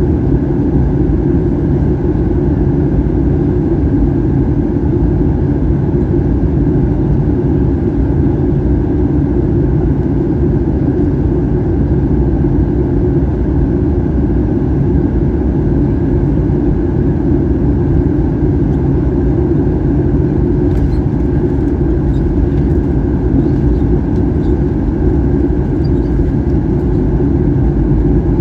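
Steady cabin noise inside a Boeing 737-800 in flight: the even drone of its CFM56 turbofan engines mixed with rushing air.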